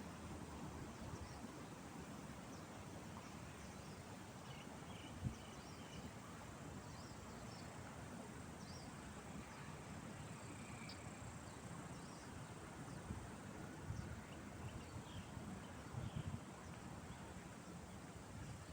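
Faint park ambience: scattered short bird chirps over a low background rumble, with a thin, steady high hum like insects. There is a single sharp click about five seconds in and a few soft knocks near the end.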